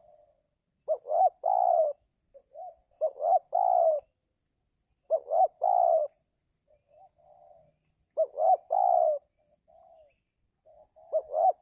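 Spotted dove cooing: five loud phrases about every two and a half seconds, each two short notes followed by a longer drawn-out coo, with softer cooing between the phrases. Faint high chirps of small birds come and go.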